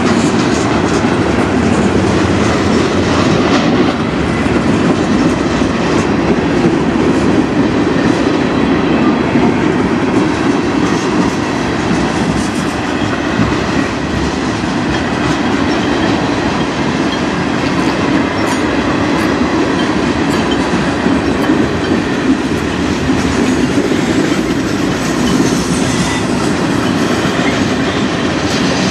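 Freight cars, covered hoppers and tank cars, rolling steadily past on steel wheels: a continuous rumble with clickety-clack as the wheels cross the rail joints.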